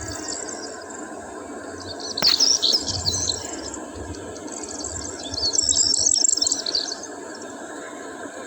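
Small birds chirping and twittering in two busy spells, the second about six seconds in, over a steady background hiss.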